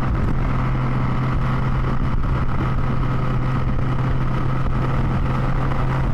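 Can-Am Spider F3-T's 1330 cc inline-three engine holding a steady, unchanging note at highway cruising speed, under an even rush of wind and road noise.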